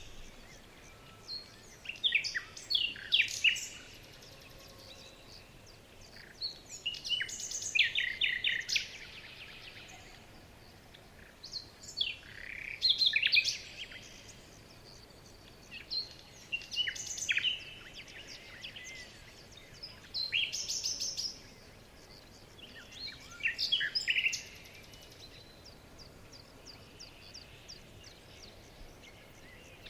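Songbird song: short phrases of quick chirps, trills and falling whistles, repeated about every four to five seconds, over a faint steady hiss. The phrases stop about 25 seconds in.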